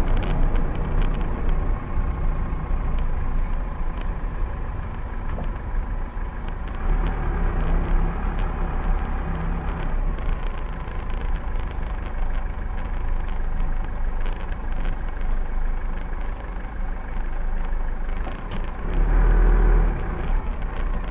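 A motor vehicle driving: steady engine and road rumble, swelling louder for about a second near the end.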